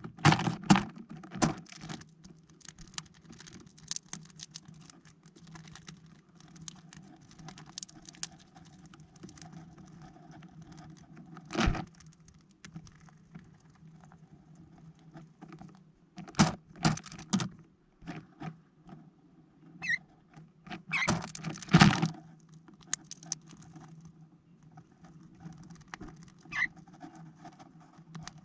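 Small birds landing, hopping and pecking on a plastic-bottle bird feeder: irregular light taps and scratches, with clusters of louder knocks a little past the middle, and a couple of brief high chirps.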